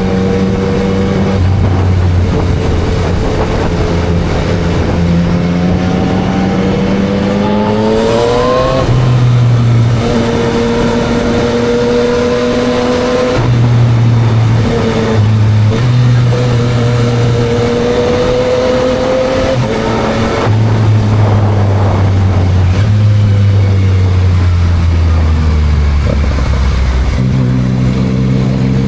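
Yamaha MT-09 SP's 890 cc inline-three running through a Spark full exhaust while being ridden. The engine note climbs under acceleration to about eight seconds in, then drops at a gear change. It shifts a few more times, slowly falls as the bike slows, and picks up again near the end.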